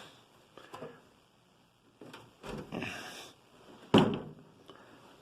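Infrared heater cabinet being turned over by hand and set back down on its casters: shuffling and handling noise, then one hard thump about four seconds in.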